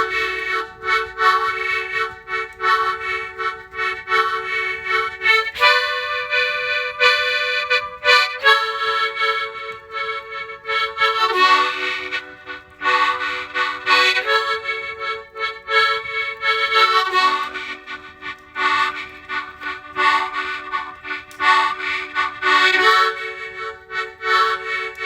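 Harmonica playing sustained chords with a pulsing rhythm, the chord changing every few seconds.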